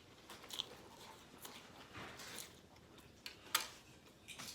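Faint eating sounds from a person chewing food: scattered small mouth clicks and smacks, with one sharper click about three and a half seconds in.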